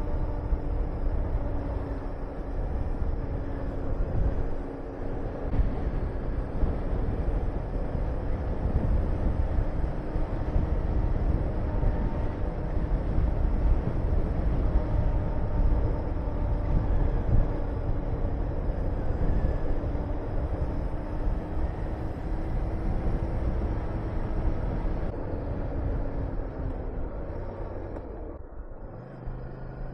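Honda VTR250's V-twin engine running at a steady cruise, mixed with wind rushing over the microphone. Near the end the engine note fades and the sound drops off.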